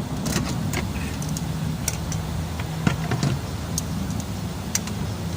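Hand tools clicking and knocking on engine parts during engine teardown work, a dozen or so short sharp strikes spread unevenly, over a steady low engine-like hum.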